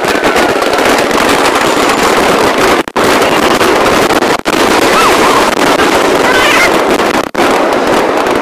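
Fireworks bursting in rapid succession, sped up so that the bangs and crackles run together into a dense, continuous high-pitched crackle. The sound cuts out briefly three times.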